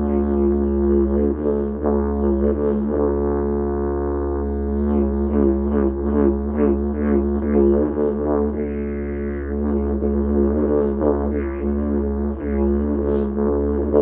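Didgeridoo playing one unbroken low drone, pulsed in a rhythmic pattern, its overtones shifting in colour as it goes.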